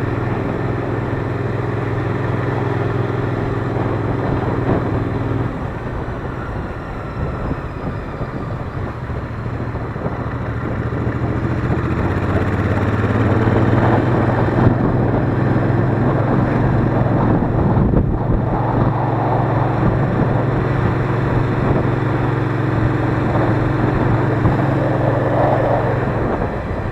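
Royal Enfield Interceptor 650's parallel-twin engine on the move, its note held steady. It drops away about five seconds in, then rises again and holds steady from about thirteen seconds in.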